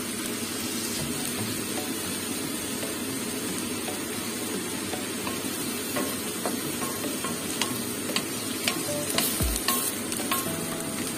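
Sliced bitter melon and tomatoes sizzling in a hot frying pan with a steady hiss. In the second half they are stirred with a wooden spatula, and its clicks and scrapes against the pan come more and more often.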